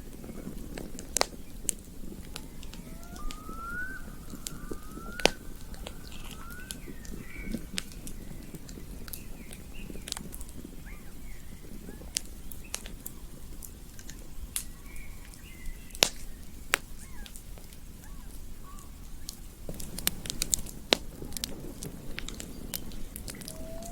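Campfire crackling with scattered sharp pops over a low rush. A bird calls a run of short rising chirps a few seconds in, with fainter calls later.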